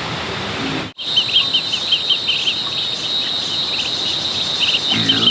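Steady high insect drone with a run of short, high chirps repeating two or three times a second. It starts suddenly about a second in, and a low voice-like sound comes in near the end.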